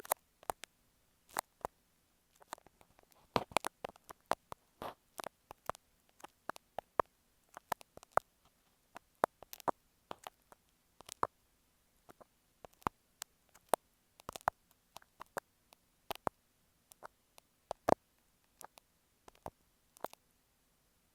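Dressmaker's pins tapping and clicking right on an earphone microphone, close up: many short, sharp, irregular clicks with brief silent gaps between them.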